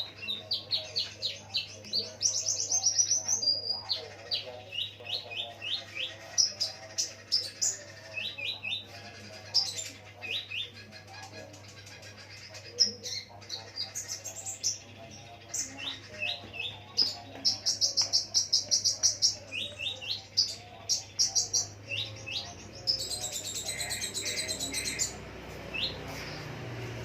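Konin songbird singing a long run of sharp chirps and fast buzzy trills, its song made up of imitated lovebird calls. A steady low hum runs underneath.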